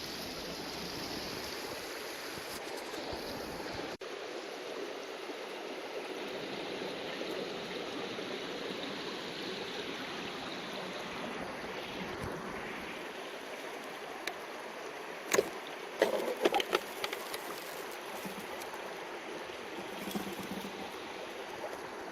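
Steady rush of flowing river water. A few sharp knocks and clatters come about two-thirds of the way through.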